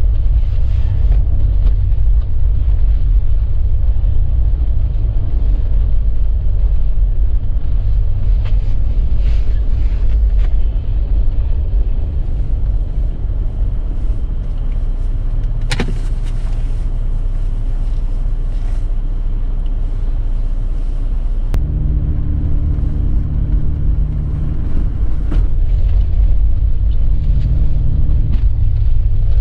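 A vehicle driving with a steady low rumble, with one sharp click about 16 seconds in. A pitched hum joins the rumble from about 22 to 28 seconds.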